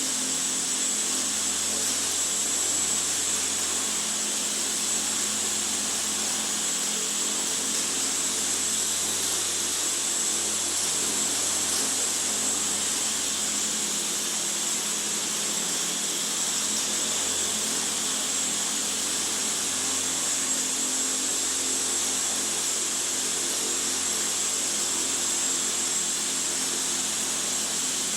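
Belt-drive coaxial RC helicopter running steadily in flight: electric motor and rotors give a constant high whine over a buzzing hum.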